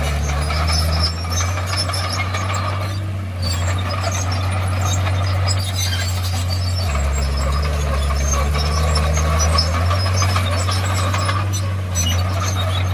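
Komatsu D51PX bulldozer's diesel engine running under load, with the engine note shifting about a second in and again about seven seconds in, over high clanks and squeaks from the steel tracks.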